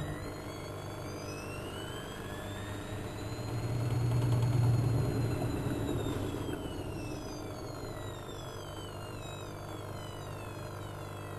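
Bauknecht WA1400 Dolphin washing machine running, its motor whine rising in pitch over the first few seconds and falling away again after about six seconds, with a louder low hum swelling in the middle as the drum speeds up and slows down.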